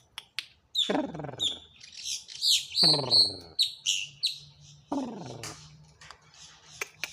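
Bird calling: three falling, drawn-out calls about two seconds apart, with many short, high chirps between and over them.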